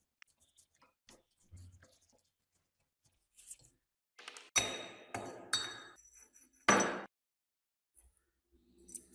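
Metal parts knocking together: faint taps at first, then about four sharp clinks with a high ringing tone past the middle.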